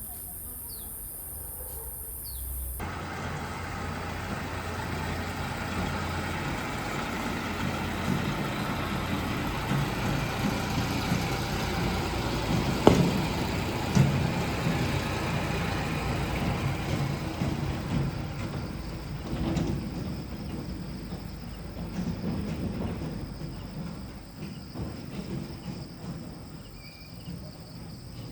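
Crickets chirping for the first few seconds, then a motor vehicle running, its engine and road noise growing louder to about halfway with a couple of sharp knocks, then fading.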